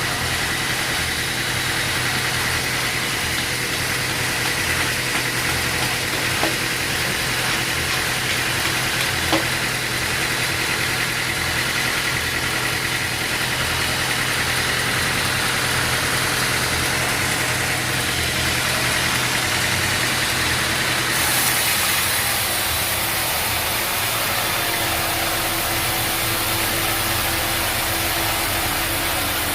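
Machinery running steadily with an engine-like hum and hiss, with a couple of small clicks. About two-thirds of the way through, the high hiss steps up.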